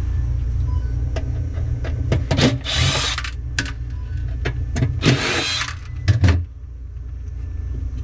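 A power drill/driver runs in two short bursts, each about half a second, taking out a screw, with small clicks of handling between. A steady low hum runs underneath.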